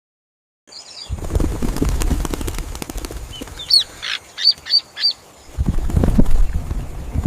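Birds flapping their wings in a flurry, with four short high chirps around the middle, then more low fluttering.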